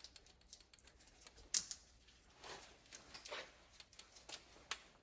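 Faint clicks and short scratchy rubs of hand work at a motorcycle wheel, with one sharp click about a second and a half in.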